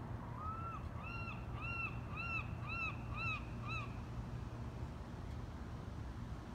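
A bird calling a series of seven clear notes, each rising and falling in pitch, about two a second, stopping about four seconds in, over a steady low hum.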